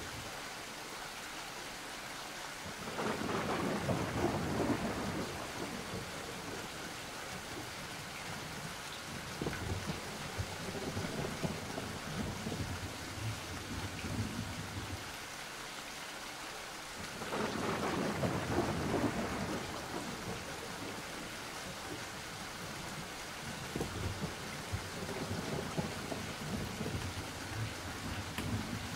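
Steady rain with rolling thunder: two long rumbles swell up a few seconds in and again past the middle, with lighter rumbles between.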